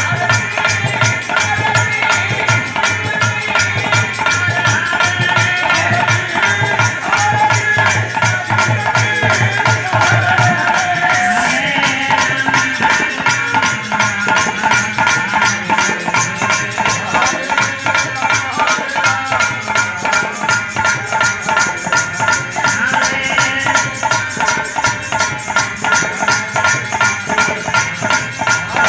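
Hari kirtan devotional music: percussion keeps a steady, fast beat while a melody line runs over it.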